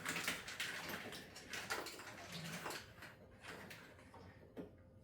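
Irregular rustling and clattering, with short knocks and scrapes that thin out after about three seconds into a few isolated clicks.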